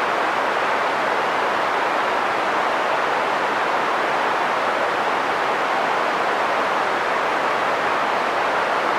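Green noise: a steady, even hiss centred in the middle of the hearing range, unchanging throughout.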